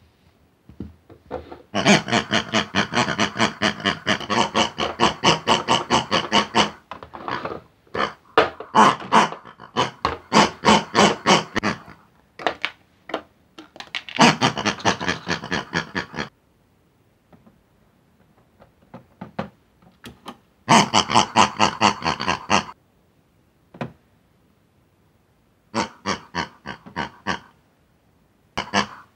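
Pig characters' voices: bursts of rapid oinking and squealing chatter, each lasting a few seconds with short pauses between.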